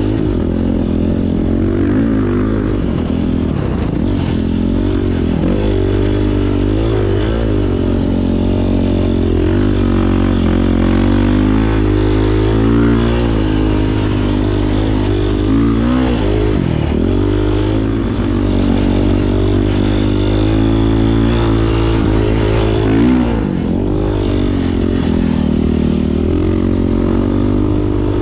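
Beta 500 RRS single-cylinder four-stroke dirt bike engine under way, revving up and down repeatedly as the throttle is worked, with the revs dropping off sharply a couple of times.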